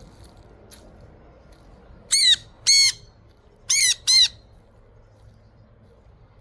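Pet parrot giving four loud, harsh squawks in two quick pairs, each call rising and falling in pitch.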